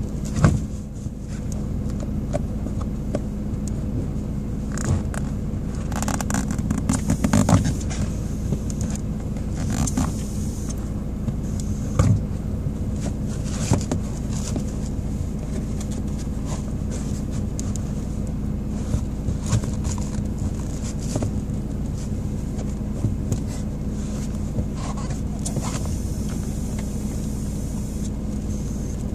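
Car engine running steadily, heard from inside the footwell, with occasional scrapes and knocks of a high-heeled shoe on the pedals, a cluster of them about six to eight seconds in.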